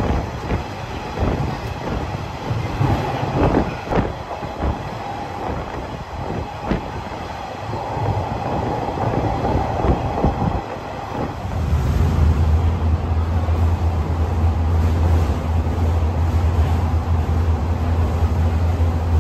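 Train running along the track: rumble with irregular clicks of the wheels over rail joints. About eleven seconds in, this gives way to a steady low hum.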